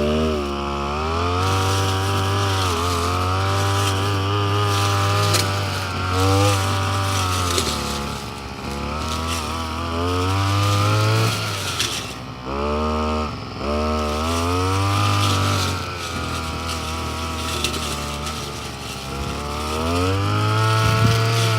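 Petrol brush cutter engine running, its throttle opened and eased off again and again, so the pitch rises and falls in repeated surges of a few seconds each.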